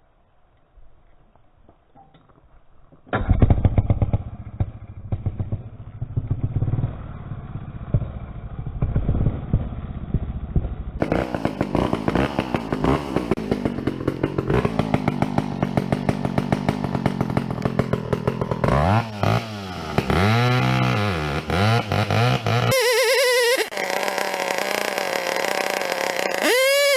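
Two-stroke chainsaw starting up about three seconds in and running, revved up and down repeatedly, with a stretch held at high revs near the end.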